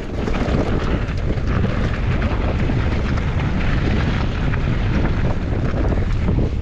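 Wind buffeting the microphone as a mountain bike runs downhill, with a steady low rumble of tyres on the trail and many small rattles and clicks from the bike.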